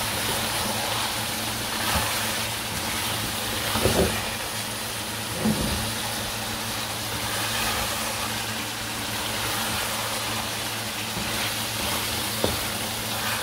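Chicken and green capsicum sizzling in a wok over a full flame as they are stir-fried, with a steady low hum underneath. A spatula knocks against the pan a few times.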